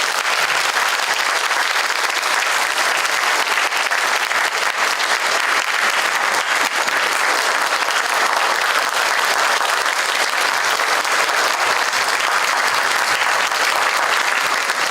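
Audience applauding steadily after a school band piece ends, a dense clatter of many hands clapping.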